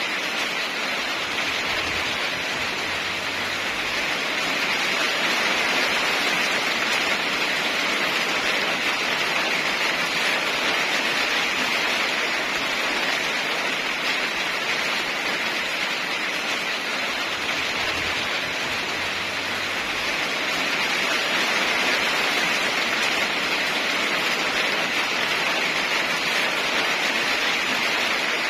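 Heavy rain falling steadily, an even hiss that swells and eases slightly a few times, with no thunder.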